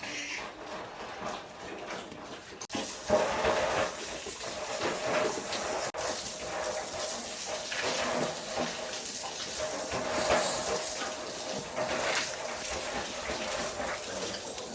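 Running water, a steady rushing hiss that becomes louder and fuller about three seconds in.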